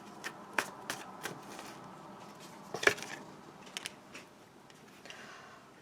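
Tarot cards being handled as the next card is drawn and turned over: soft sliding and brushing with several light clicks and snaps, the loudest a little under three seconds in.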